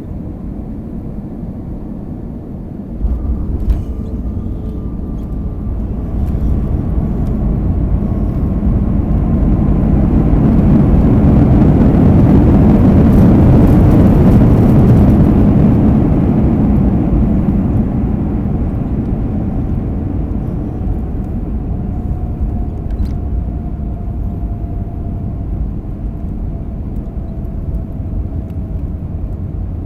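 Airbus A320-232 landing, heard from inside the cabin: about three seconds in, a sudden low rumble and a thump as the wheels touch down. Then the IAE V2500 engines' reverse thrust builds to a loud roar in the middle and dies away as the aircraft slows, leaving a steady runway rumble and a faint tone sliding slowly down.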